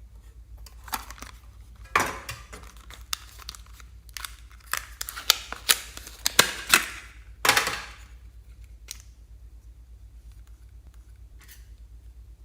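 Slime being worked by hand close to the microphone: a run of sharp crackles, snaps and short sticky tearing sounds for about six seconds, then a few faint clicks near the end.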